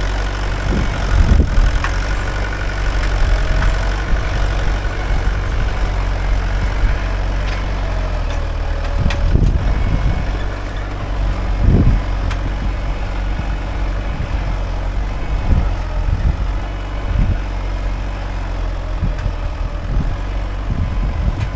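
Mahindra 575 DI tractor's four-cylinder diesel engine running steadily with a low, even note, with a few short knocks and rattles about a second in, around nine and twelve seconds, and near the end.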